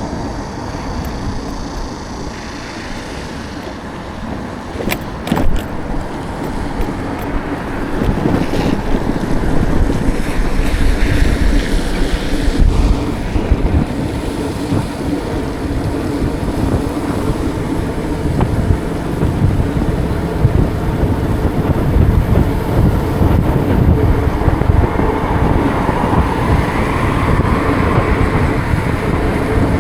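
Wind buffeting the microphone of a moving bike, over city street traffic noise. A couple of sharp clicks come about five seconds in, and the rumble grows louder about eight seconds in.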